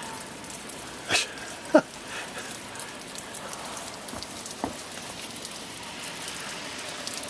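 Sleet falling and ticking on surfaces, a steady hiss of many small ticks, with two short knocks between one and two seconds in.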